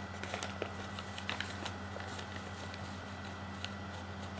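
Paper being folded and handled for an origami flapping bird: scattered small clicks and crinkles, over a steady low hum.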